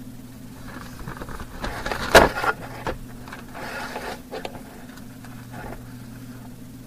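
Rustling and handling noise with a sharp knock about two seconds in and a few lighter clicks, over a steady low hum.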